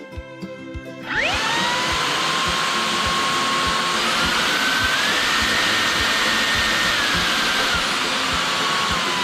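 Samsung Jet 95 CompleteClean cordless stick vacuum switched on, its HexaJet motor spinning up with a fast-rising whine and airflow hiss. It is then stepped up through higher power settings twice and back down near the end. Background music with a steady beat plays underneath.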